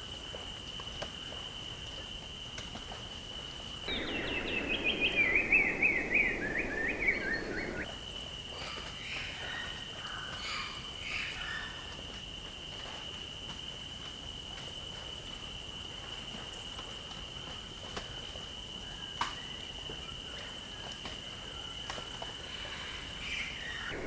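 Birds singing, over a steady high-pitched whine. About four seconds in comes the loudest part, a song of quick notes that step down in pitch, lasting about four seconds. After it come scattered short chirps.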